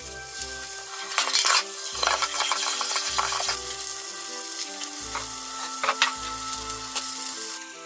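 Lotus root patties sizzling as they fry in oil in a frying pan, with a metal slotted spatula scraping and clicking against the pan a few times, most sharply about a second and a half in and again around six seconds.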